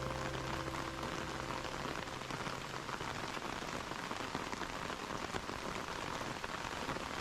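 Steady heavy rain pattering down during a typhoon.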